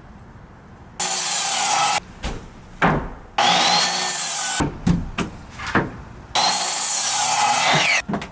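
Power saw cutting wooden 1x6 drink-rail boards: three short cuts of about a second each, with knocks of the boards being handled in between.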